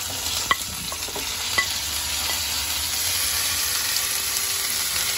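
Chopped tomatoes are scraped off a plate with a spatula into hot oil and frying onions, sizzling steadily. A few sharp clicks of the spatula on the plate come in the first two seconds, and the sizzle grows slightly louder about halfway through.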